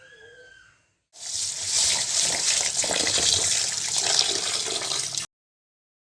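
Water running from a tap into a sink: a loud, steady rush that starts about a second in and cuts off suddenly about five seconds in.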